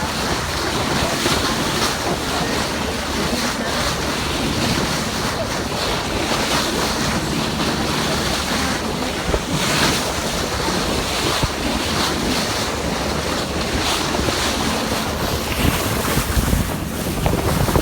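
Steady wind buffeting the microphone over a continuous rush of sea waves.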